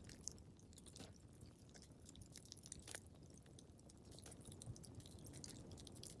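Wood fire crackling faintly in a fireplace: a low steady rumble with irregular small pops and snaps, the sharpest about one and three seconds in.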